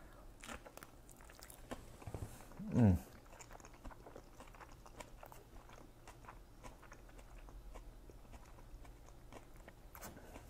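Biting into and chewing a fresh Vietnamese-style spring roll with iceberg lettuce inside: faint crunching and wet mouth sounds. About three seconds in there is one short hum from the eater, falling in pitch.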